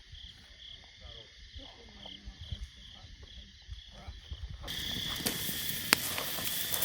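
Night insects chirping in a steady rhythm, about two chirps a second. About two-thirds of the way through, the sound cuts to a campfire crackling and hissing, with a few sharp pops.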